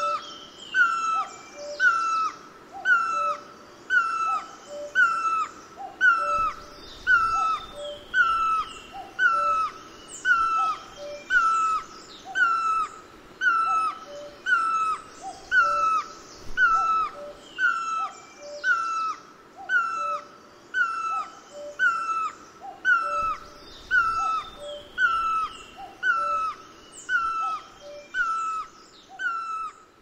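A bird calling steadily, repeating a short falling note about one and a half times a second, with fainter calls of other birds higher up.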